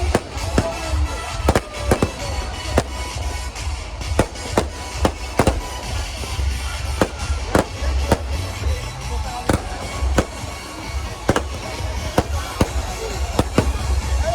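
Fireworks going off in an irregular series of sharp bangs and cracks, several a second at times, over a steady low rumble.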